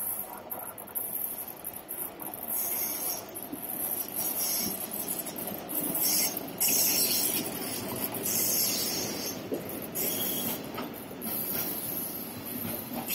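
A freight train of open wagons hauled by a ČD Cargo Class 280 locomotive running past: steady rolling noise of the wheels on the rails, with high-pitched wheel squeal that comes and goes again and again.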